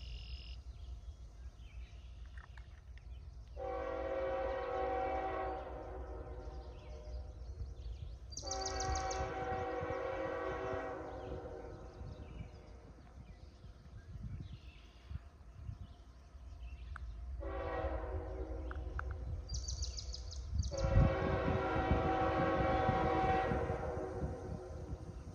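Locomotive's five-chime Nathan K5HL air horn sounding four blasts, the last held longest, the usual warning signal for a grade crossing. A low locomotive rumble grows under the last blast as the train draws near.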